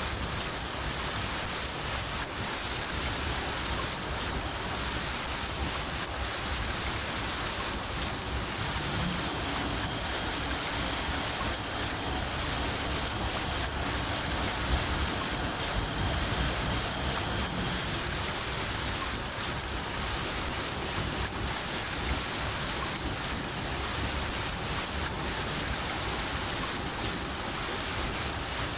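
Crickets chirping in a steady, even rhythm of high pulses, over steady rain and a low rumble of thunder.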